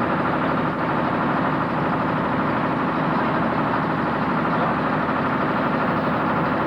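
Truck engine idling steadily, with no revving or change in pitch.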